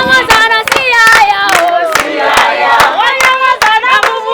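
A group of voices singing together, with rhythmic hand clapping about three times a second.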